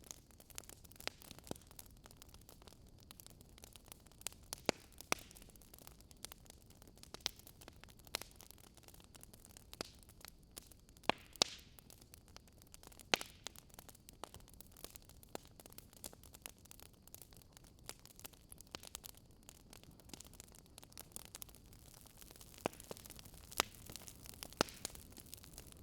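Wood fire crackling: a faint steady hiss with irregular sharp pops, a few of them much louder than the rest.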